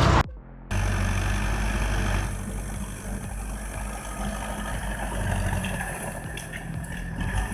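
An engine running steadily at a low, even pitch, with a few light knocks near the end.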